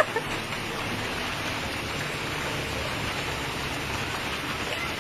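Steady heavy rain pouring onto a flooded street, an even hiss of water with no break.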